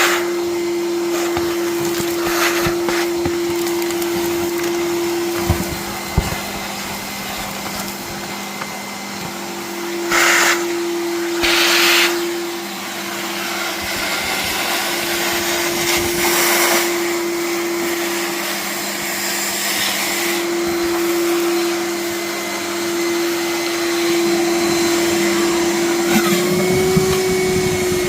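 Gutter vacuum running, its motor holding a steady hum while it sucks mud and leaves out of a drain channel through the end of its pole. A few brief louder rushes of noise come about ten to twelve seconds in and again a little later, and the motor's pitch rises slightly near the end.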